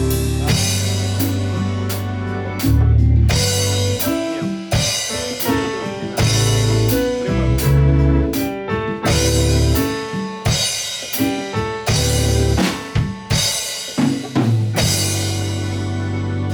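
Pop-jazz band music without vocals: a drum kit with bass drum and snare keeps a beat under a strong bass line and other pitched instruments.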